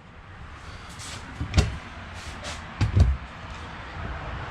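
Two sharp knocks about a second and a half apart, over faint rustling.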